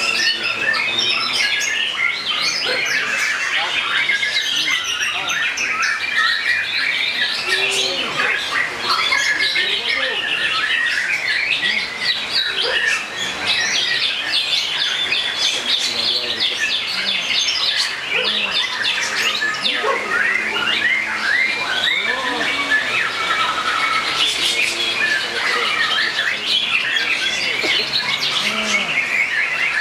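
Many caged songbirds singing and chattering at once, a dense, continuous chorus of rapid chirps, trills and squawky calls with no pause.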